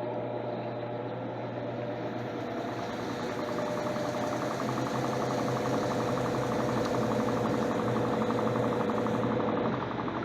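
Electrolux LTC10 washing machine running on its jeans program: its motor hums steadily with a low drone and a higher tone, then stops near the end.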